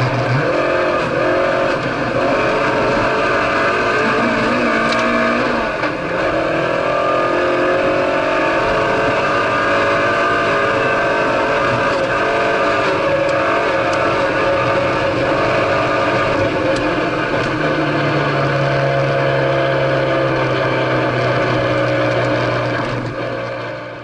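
Citroën C2 rally car's engine running hard, heard from inside the stripped cabin together with road and tyre noise. The engine note shifts in pitch as the car is driven, dips briefly about six seconds in, and fades out near the end.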